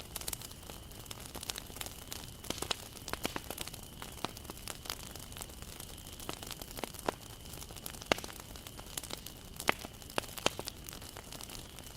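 Wood bonfire crackling: irregular sharp pops and snaps of burning wood over a steady low hiss, with a few louder pops in the second half.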